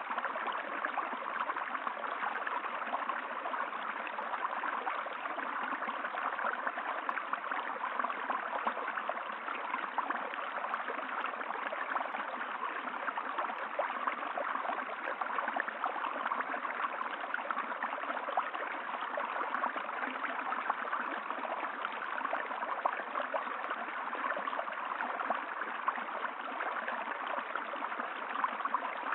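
Running water flowing steadily, with a continuous rushing and gurgling and no change in level.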